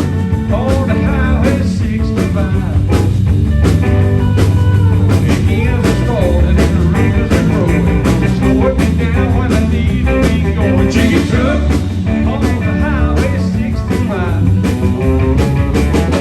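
A band playing a blues-rock song, with electric guitar over bass and a steady drum beat.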